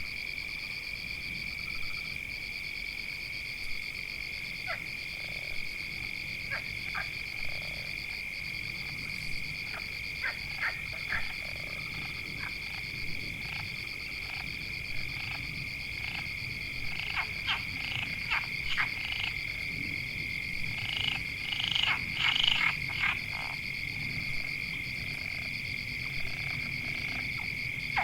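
A chorus of frogs calling: a continuous high trill with short croaking calls over it, the calls thickest a little past the middle.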